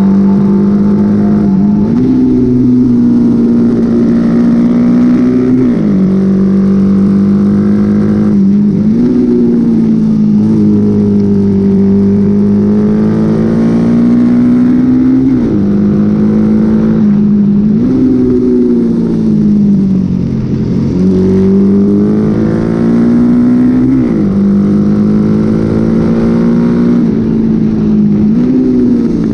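Honda XL motorcycle engine run hard in a race, revs held high and dipping briefly, then climbing again every few seconds as the throttle is eased and reopened or gears change.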